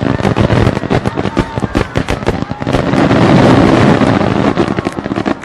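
Fireworks going off in a rapid, dense string of sharp cracks and bangs. About three seconds in they build to a loud, continuous rumble of overlapping bursts, then thin out near the end.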